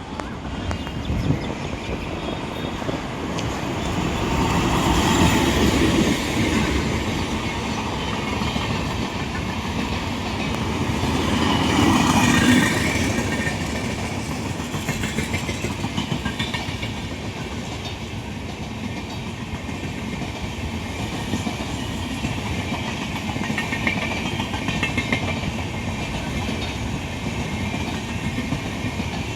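Empty passenger coaches of an express train running past, wheels clattering over the rail joints, with louder swells about five seconds in and again about twelve seconds in.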